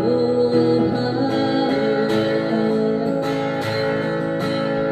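Music: a singer holding a sung line of a Korean ballad over acoustic guitar accompaniment.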